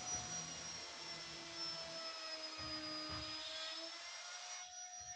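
A steady machine hum with a high whine and a couple of lower tones that drift slightly in pitch, with a few soft knocks in the second half.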